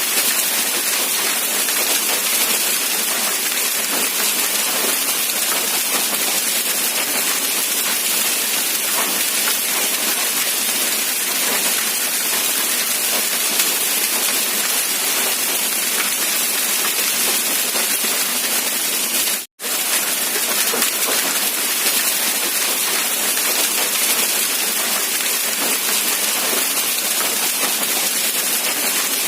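Steady rain falling, an even hiss weighted toward the high end, which cuts out for a split second about two-thirds of the way through before resuming unchanged.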